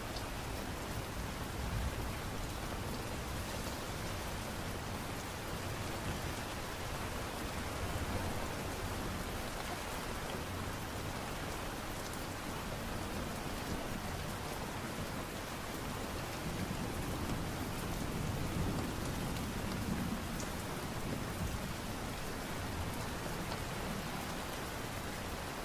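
Steady light rain: an even hiss of rain with faint drop ticks.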